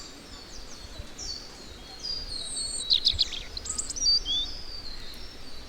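Songbirds chirping and calling: many short, high-pitched notes and quick sweeping phrases, with a louder run of rapid notes about three seconds in.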